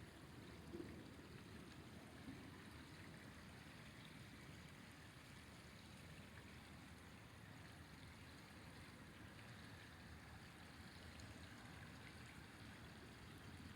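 Faint, steady rushing of a flowing river.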